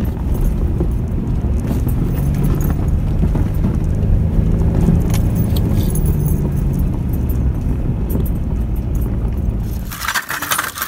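Car engine running with a steady low rumble. Near the end it fades and a brief rattling hiss takes over.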